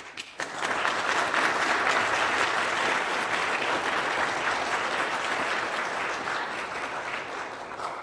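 Audience applauding, starting suddenly and holding steady, then dying away near the end.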